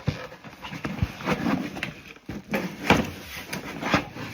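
Knocks and clicks of a small plastic drip coffee maker and its parts being handled and set in place, with a few sharp taps, the loudest near the end.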